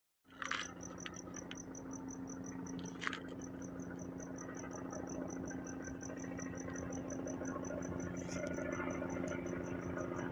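Helicopter heard at night, a low steady drone with a fast rotor throb that grows gradually louder. Over it, a high chirp repeats steadily about five times a second, with two brief knocks in the first few seconds.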